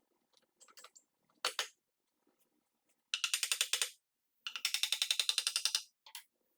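A ratchet mechanism clicking rapidly in two runs of about fifteen clicks a second, the second run longer. Shortly before the runs there is a single sharp click.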